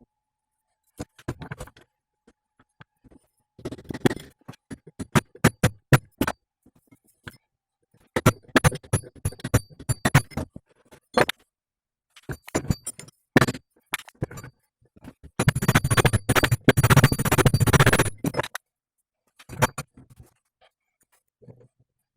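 Metal hand-tool work: bursts of clinking and knocking metal on metal, with a denser scraping, rattling stretch of about three seconds about two-thirds of the way through.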